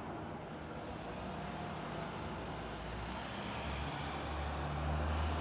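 Low engine hum of a motor vehicle over steady outdoor noise, growing louder in the second half.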